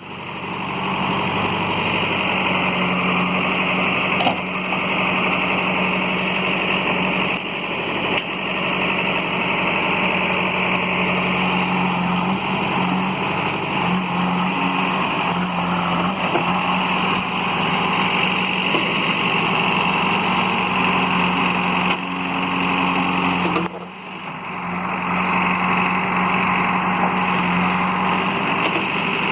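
JCB backhoe loader's diesel engine running steadily, its pitch stepping up and down a little, with a brief drop in level late on.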